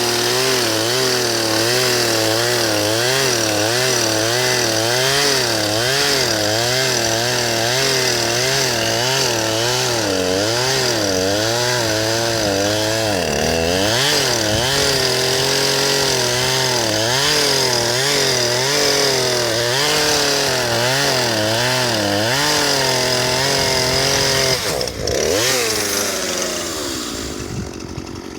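Chainsaw engine running loud, its speed rising and falling about once a second, as when the saw bogs and recovers; this saw is barely working. Near the end the engine speed drops off sharply and the sound fades.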